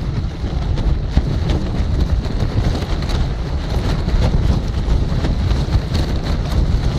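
Strong, gusty wind buffeting the microphone: a loud low rumble, with a few faint ticks here and there.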